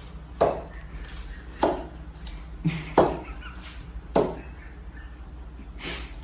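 A series of sharp knocks or thumps, about one every second, over a low steady hum.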